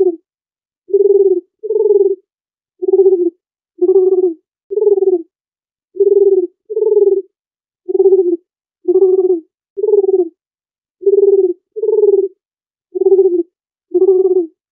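A dove cooing: a run of about fourteen short, low coos, roughly one a second, falling into loose pairs and threes with clean silence between them.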